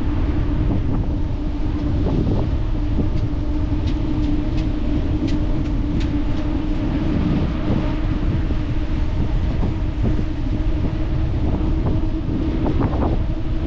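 Riding noise from a bicycle in motion: low wind and road rumble on the microphone with a steady hum, and scattered light clicks and rattles.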